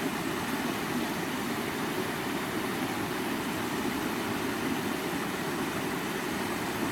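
Creek water running over rocks: a steady, even rush of flowing water, strongest in its lower part.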